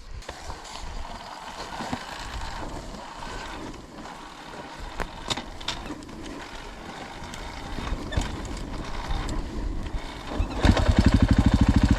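Low outdoor background noise with scattered clicks and knocks. About ten and a half seconds in, a dirt bike's engine starts and runs at a steady, even beat, much louder than what came before.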